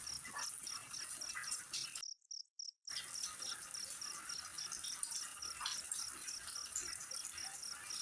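Insects chirping in a steady high-pitched pulse, about four chirps a second, over a faint hiss. The sound cuts out completely for just under a second about two seconds in.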